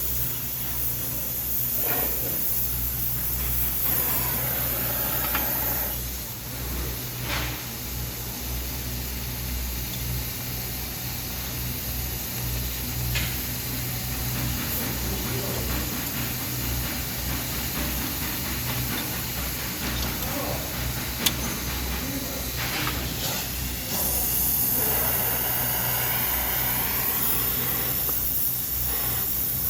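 A steady hiss over a low, constant hum, with a few brief knocks or clicks; one sharp click comes about two-thirds of the way through.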